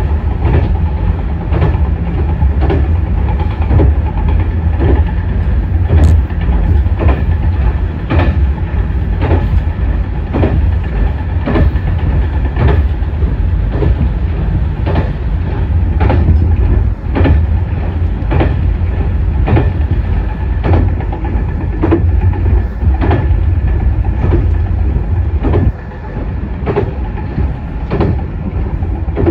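Diesel railcar heard from on board while running: a steady low engine and running drone with wheels clicking regularly over rail joints. The overall level drops a little about 26 seconds in.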